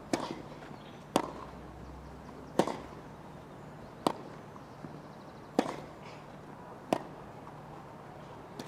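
A tennis rally: the ball struck back and forth by racquets, seven sharp strikes at an even pace of about one every second and a half.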